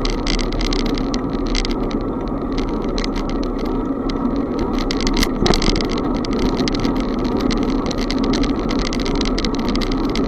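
Bicycle being ridden: steady wind and road noise with a constant light rattling, and one sharper knock about five and a half seconds in.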